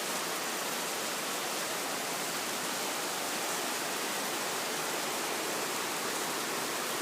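Heavy rain falling in a steady, unbroken hiss during a thunderstorm, with no thunder.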